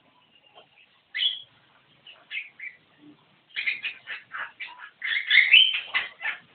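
Javan myna calling: one harsh call about a second in, a few short ones after, then a rapid run of harsh, chattering notes that is loudest in the second half.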